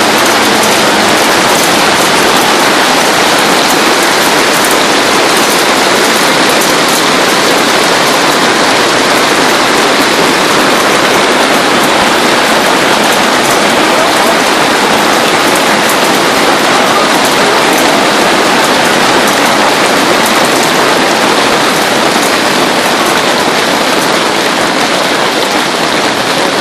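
Heavy hail falling, a dense steady clatter of countless hailstones hitting surfaces.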